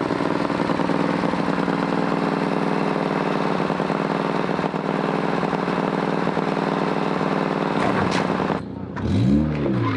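Off-road vehicle engine idling steadily. About eight and a half seconds in it cuts off abruptly, and a short sound that rises and falls in pitch follows.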